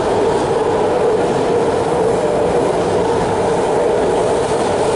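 BART rapid-transit train passing on the elevated track: a loud, steady rumble with a droning tone held in it.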